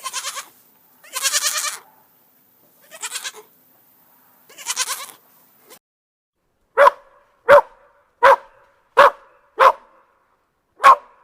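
Four quavering bleats from a goat or sheep, then a dog barking: six short, sharp barks about two-thirds of a second apart, with a slightly longer gap before the last.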